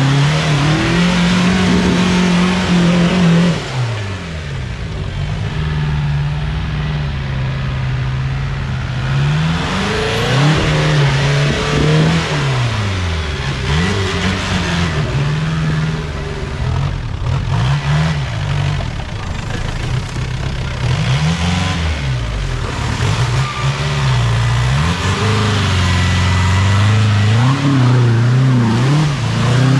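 Off-road vehicle's engine revving. It holds steady for a few seconds at a time, then rises and drops back again and again, with the throttle worked on and off.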